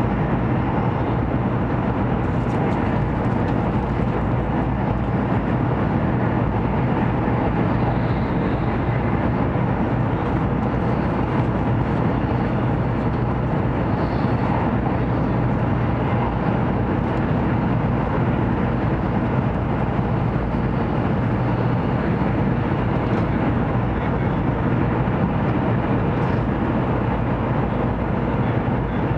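Cabin noise inside a Taiwan High Speed Rail 700T high-speed train running at speed: a steady rush of wheels on rail and air over the body, with a steady low hum underneath.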